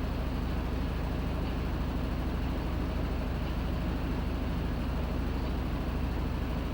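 Panasonic NA-FA100H9 top-loading washing machine running steadily with a low hum, its tub spinning at constant speed with no pauses or reversals.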